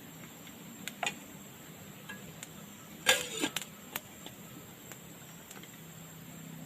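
A few scattered sharp clicks and knocks: two about a second in, and the loudest cluster about three seconds in. A faint low hum runs steady underneath.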